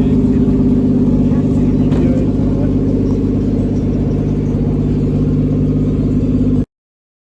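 Car engine running steadily at an even pitch, close and loud, until the sound cuts off abruptly about six and a half seconds in.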